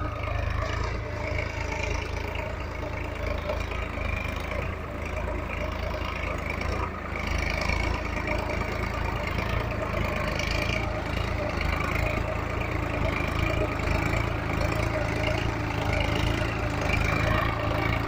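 Solis tractor's diesel engine running steadily at idle.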